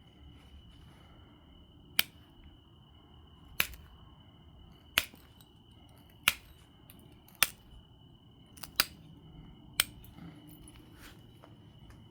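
Obsidian being flintknapped: seven sharp clicks, about one every second and a quarter, as flakes come off the biface.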